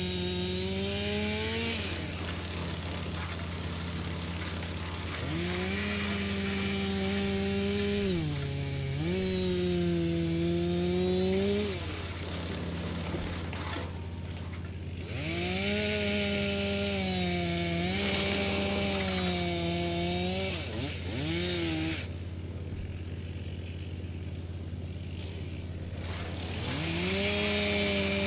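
Wood chipper's engine running with a noisy grinding of wood being chipped. Its pitch drops and recovers several times, as the engine slows under the load of wood being fed through and then picks back up.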